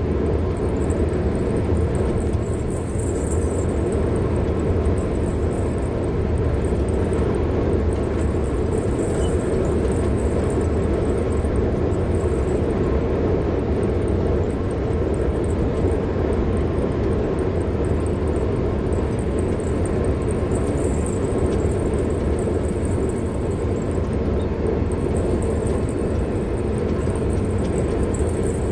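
A car driving on the road: steady tyre and engine noise with a low rumble, unchanging throughout.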